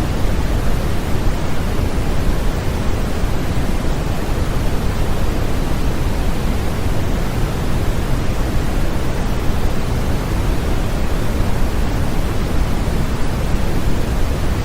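Steady, unbroken white noise, a constant even hiss that is heavier in the low end, with no changes or events.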